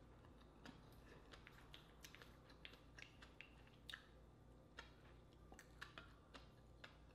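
Faint wet chewing and mouth clicks of a person eating rice and a large baked oyster from its shell, as irregular small smacks several times a second.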